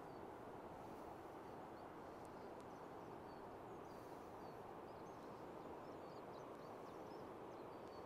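Faint, short high bird chirps repeating every second or so over a steady low rushing background.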